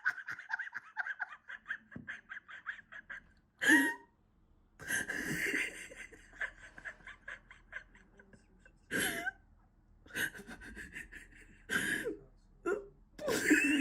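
A person laughing hard in several fits of rapid laughter, broken by short, louder cries.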